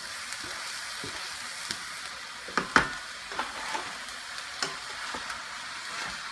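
Ground beef, onions and mushrooms sizzling steadily in a frying pan as chopped bell peppers and jalapeño go in and are stirred with a wooden spoon. A few short knocks of the spoon against the pan, the loudest a little under three seconds in.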